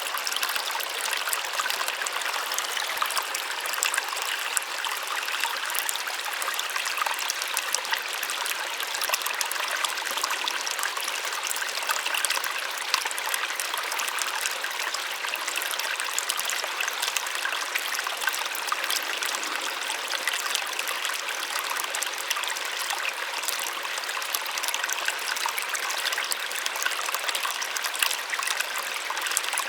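Small waterfall: water splashing and trickling steadily, a continuous bright hiss full of fine splashes with nothing deep underneath.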